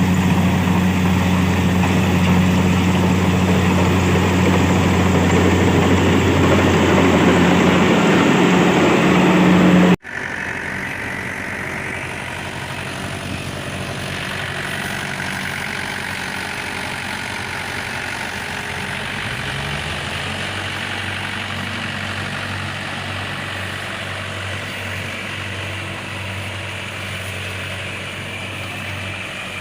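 Mahindra 475 DI tractor's diesel engine running steadily with a low hum. About ten seconds in the sound cuts off abruptly and goes on quieter, with a slight rise in engine pitch later.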